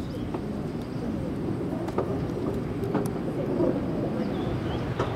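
Kurobe Gorge Railway trolley train rolling slowly in reverse along the narrow-gauge track, with a steady rumble and irregular wheel knocks over the rail joints.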